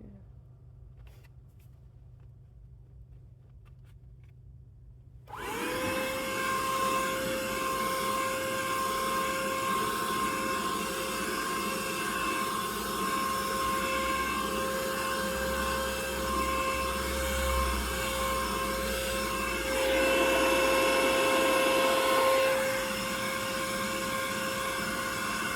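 A few faint clicks, then about five seconds in a vacuum cleaner switches on and runs with a steady whine. About twenty seconds in it gets louder for a couple of seconds, then drops back.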